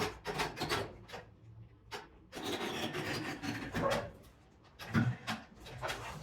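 Heavy metal scraping and grinding against wooden blocking as the tractor is set down and shifted, with a long rasping drag in the middle and a heavy low thump about five seconds in.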